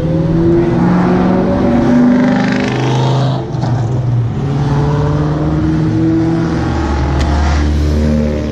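Loud car engine running and being revved, its pitch shifting up and down, with a deep rumble building near the end.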